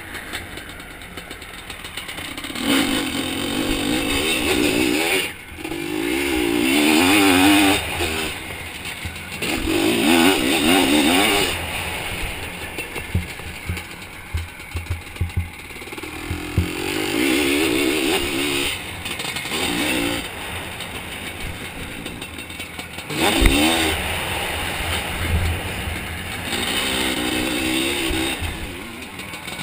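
Zabel 700 two-stroke sidecar-cross engine revving hard in repeated surges as the throttle is opened and shut, pitch climbing in each surge, with scattered knocks and clatter from the outfit over the rough track.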